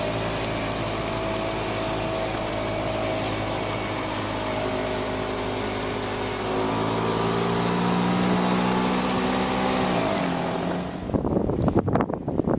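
An engine running steadily, its pitch dropping about ten seconds in, then cut off abruptly and replaced by wind buffeting the microphone.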